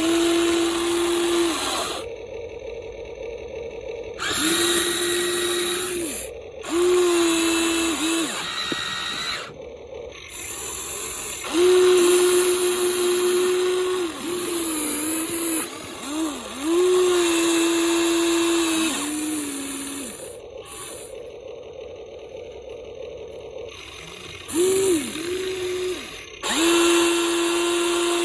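Electric motors of a Huina 1593 RC excavator whining in about eight start-stop bursts of one to three seconds each, holding a steady pitch while they run.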